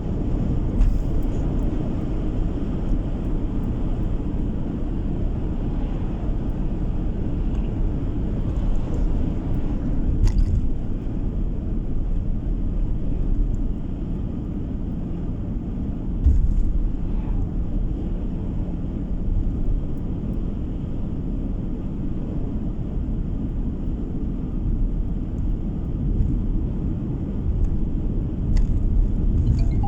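Steady low rumble of a car driving, engine and tyre noise heard from inside the cabin, with an occasional light knock.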